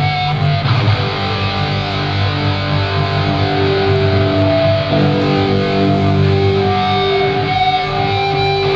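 Live hardcore band's electric guitars playing long, held, ringing chords at high volume, the chord changing about halfway through.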